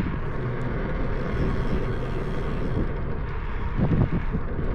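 Steady rushing and rumbling noise of wind and motion on the microphone of a moving bicycle, with a few faint ticks near the end.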